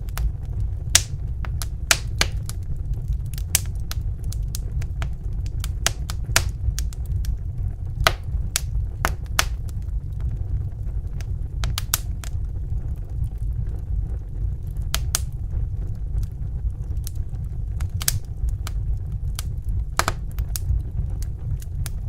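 Wood fire in a fireplace crackling: sharp, irregular pops and snaps over a steady low rumble of the flames.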